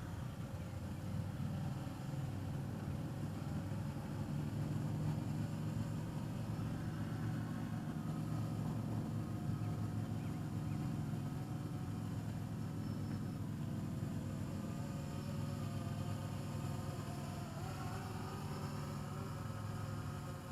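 Steady low motor hum with several held tones, the higher ones drifting a little in pitch near the end.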